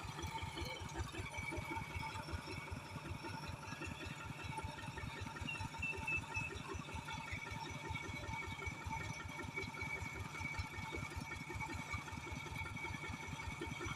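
An engine idling steadily with an even, rapid beat.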